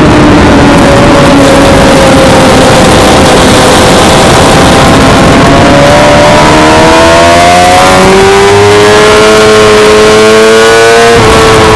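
Suzuki GSX-R600's inline-four engine, its pitch falling off as the bike slows, then climbing steadily under acceleration from about halfway, with a sudden shift near the end, over heavy wind noise.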